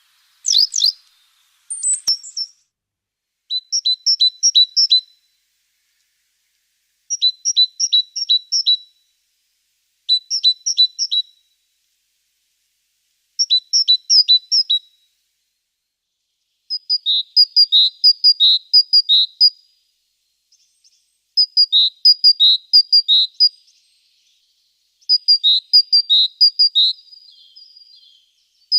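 A small songbird singing: short phrases of rapidly repeated high two-note calls, each phrase about a second and a half long, repeated every few seconds. The phrases change pattern about halfway through.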